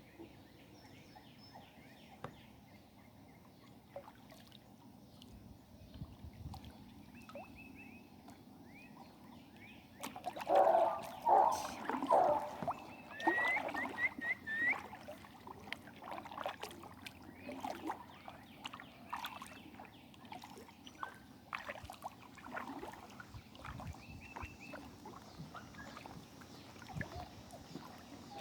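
Kayak paddling, with water splashing and sloshing, loudest for a few seconds about a third of the way in. Over it come short chirps in quick runs of four or five.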